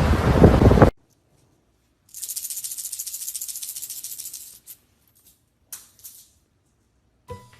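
A burst of wind-like rushing noise cuts off suddenly about a second in. After a short silence comes a dry, rapid, high-pitched rattling, like a shaken maraca, lasting about two and a half seconds. Music starts near the end.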